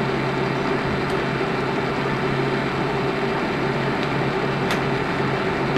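Steady machine hum: a constant low tone over an even hiss, with two faint clicks, one about a second in and one near the end.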